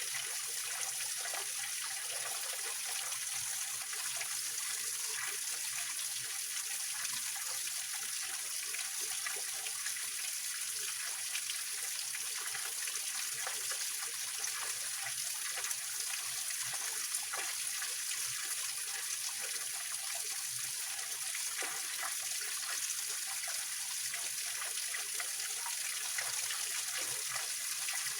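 Small waterfall in a rocky mountain stream: water running and splashing over rocks in a steady hiss, with small trickles and splashes mixed through it.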